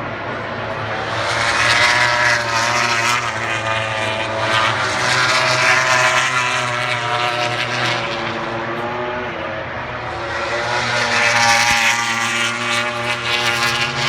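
MotoGP racing motorcycles passing at high revs one after another, the engine pitch rising and falling as each goes by; the loudest passes come about two seconds in, around six seconds, and near the end.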